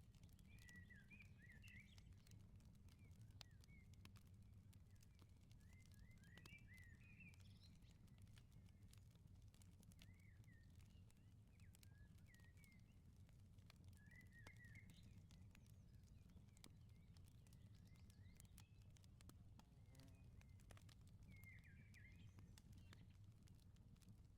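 Faint wood fire crackling with small, sharp pops, while a bird chirps short twittering phrases every few seconds over a low steady rumble.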